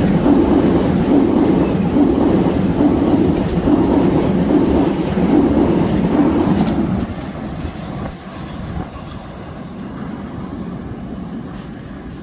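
Southern Class 377 electric multiple unit passing close by at speed, a loud rumble of wheels on rail with a repeating beat as the carriages go by. About seven seconds in it drops to a quieter rumble that fades away.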